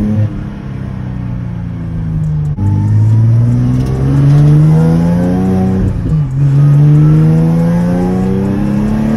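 Nissan 370Z's swapped VR30 3.0-litre twin-turbo V6, heard from inside the cabin, pulling under acceleration through the gears. The engine note holds steady, drops at an upshift about two and a half seconds in, climbs steadily, drops again at a second upshift about six seconds in, then climbs once more.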